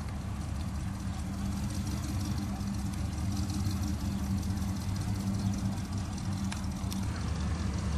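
A classic car's engine idling as the car creeps past at walking pace, running steadily with a low, even tone that grows a little louder as it draws level.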